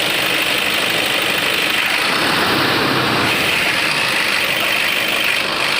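Toyota Innova engine idling steadily, with its newly replaced V-belt running quietly: no belt squeal.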